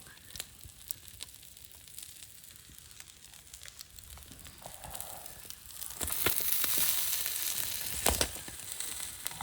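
Campfire crackling with scattered sharp pops, then a louder sizzling hiss lasting about three seconds, starting a little past the middle.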